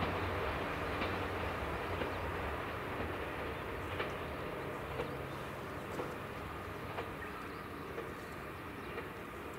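Diesel train running away into the distance, its low engine hum and wheel rumble fading steadily. A faint sharp tick comes about once a second throughout.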